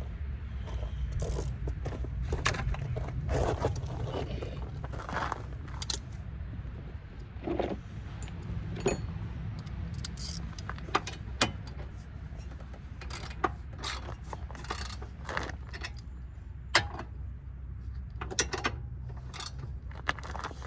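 Metal hand tools and car parts clinking, scraping and ratcheting in short irregular knocks, over a steady low rumble.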